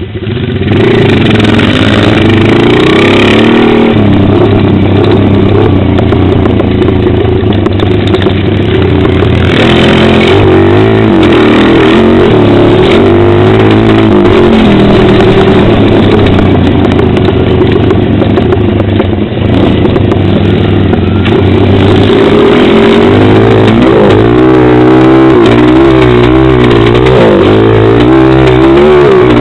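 Pit bike engine running hard while being ridden, heard from a helmet camera. Its pitch climbs and drops over and over as the throttle is worked and the gears change, with a brief drop in level about two-thirds of the way in.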